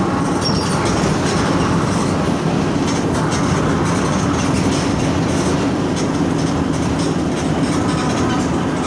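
Diesel engine of a Mercedes-Benz OF 1722M bus, an OM 924LA 4.8-litre four-cylinder, running steadily at mid revs while the bus is under way. Light rattles come from the bodywork.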